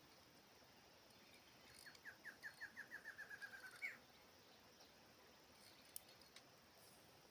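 A wild bird calls once: a run of about a dozen quick notes that speed up and drop slightly in pitch, ending on a short upward note. A single faint click comes near the end.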